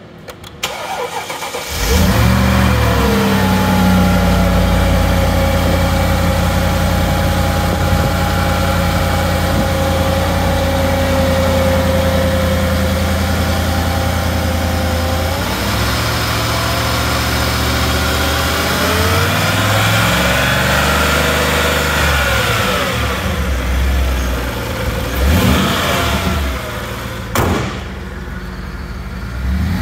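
Mercedes G55 AMG's supercharged V8 starting after a brief crank, catching about two seconds in and settling into a steady fast idle. Its pitch drops at mid-clip, then slowly rises and falls again, with a couple of light blips. A sharp thump near the end as the hood is shut, after which the engine sounds more muffled.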